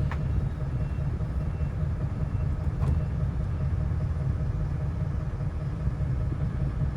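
Steady low rumble of a bus driving, heard from inside the cabin.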